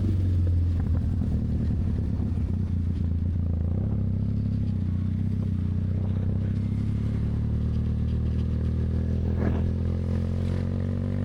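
Motorcycle engine running steadily at low revs, with the pitch rising a little near the end.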